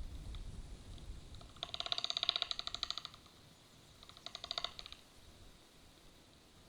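Young black storks giving a rapid, rattling, creaky call in two bouts: a longer one starting about one and a half seconds in and a shorter one about four seconds in. A low wind rumble fades out in the first second or so.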